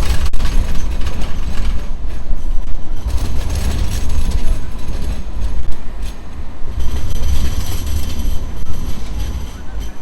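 Light rail tram running along street track, a steady loud rumble of the vehicle and its wheels on the rails amid city traffic noise.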